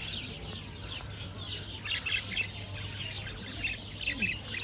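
Many small birds chirping and twittering at once, short rapid calls overlapping throughout, over a low steady hum.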